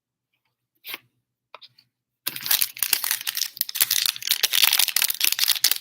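Foil trading-card pack wrapper being torn open and crinkled, a dense crackling that starts about two seconds in after a couple of light clicks.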